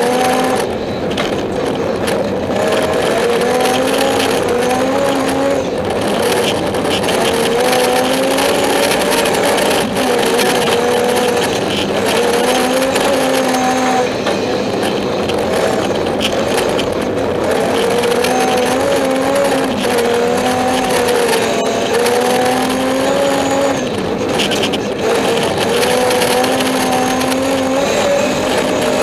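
BMW 325i's straight-six engine driven hard, heard from inside the cabin, its pitch climbing and dropping back again and again as it revs up and eases off.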